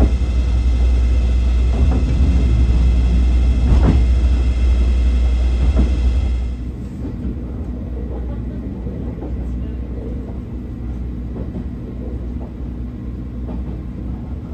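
Vintage passenger coach running on the rails, heard from inside: a steady low rumble with a few knocks from the wheels. About six seconds in it drops to a quieter, duller rumble.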